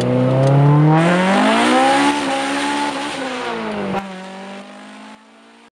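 Car engine revving, used as a logo sound effect. It climbs in pitch over about two seconds, eases back down and holds, then drops off sharply about four seconds in, leaving a fainter steady hum that stops near the end.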